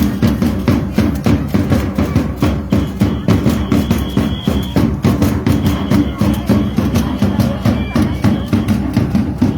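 Danza drums beating a fast, steady rhythm for a traditional dance troupe, with a high held note sounding a few times over the beat.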